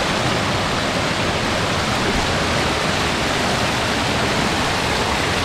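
Waterfall's water rushing over rocks close by, a steady, even noise that does not change.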